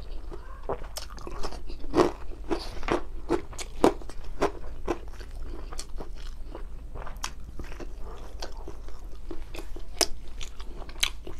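Close-up chewing of a mouthful of sauce-soaked rice and grilled fish eaten by hand, with frequent wet mouth clicks and smacks at an irregular pace.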